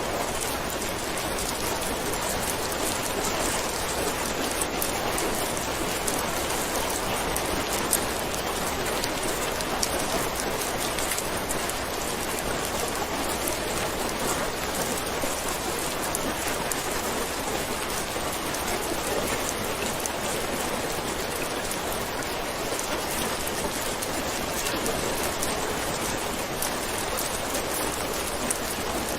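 Steady heavy rain falling and pattering on surfaces, an even rushing hiss with scattered drop ticks.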